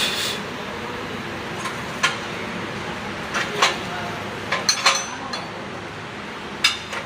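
Scattered metallic taps and clinks of a hand tool on a steel weld plate, cleaning the weld between passes: single knocks a second or two apart with a short cluster of several about two-thirds of the way through.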